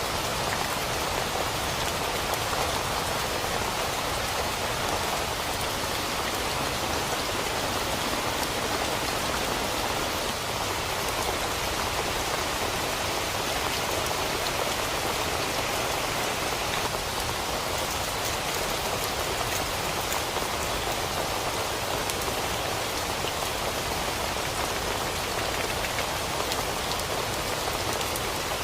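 Heavy rain falling steadily on a tent, an even, unbroken patter.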